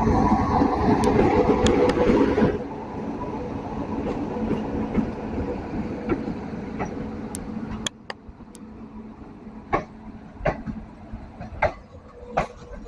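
Passenger express train running on the track: a loud rumble that drops off sharply about two and a half seconds in and keeps going more quietly. In the second half it fades further and sharp, irregular clicks and knocks stand out.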